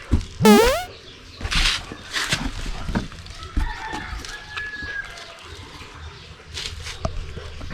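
A short, loud animal cry rising sharply in pitch, followed by a few brief rustling noises.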